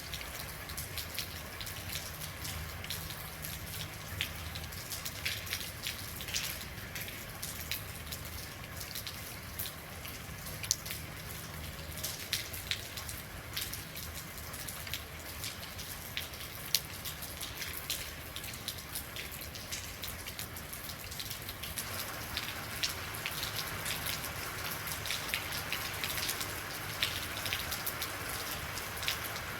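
Steady rain, with many distinct drops ticking sharply against a hiss. About two-thirds of the way in, the rain grows heavier and fuller.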